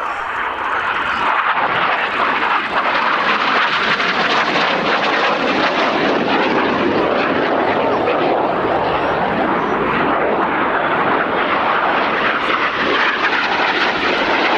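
Jet engines of the Red Arrows' BAE Hawk T1 formation running loud and steady as the jets fly by, building up over the first second.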